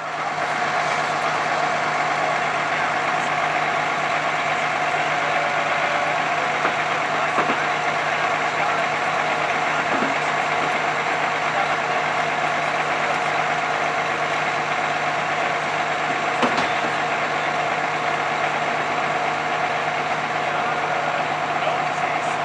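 Large truck engine, likely a fire truck's, idling with a steady hum, with a few faint knocks.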